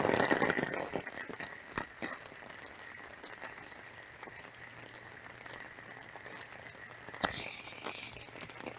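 Heavy rain falling, a steady hiss with scattered drips and taps, louder in the first second. A single sharp tap about seven seconds in.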